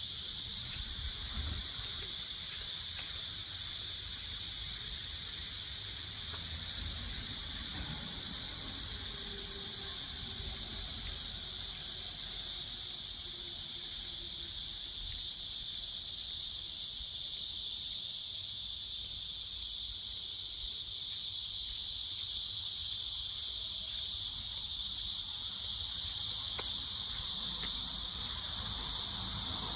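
A steady, high-pitched chorus of insects that runs on without a break, with a faint low rumble underneath.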